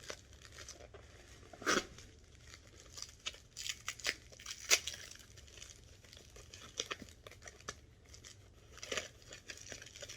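Packing material rustling and crinkling as it is pulled open, with scattered short crackles and a couple of louder tearing sounds, the loudest about five seconds in.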